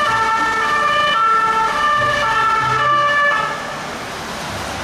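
Electronic emergency-vehicle siren sound, its tones jumping between pitches over a hiss. The tones fade about three and a half seconds in, leaving a quieter hiss.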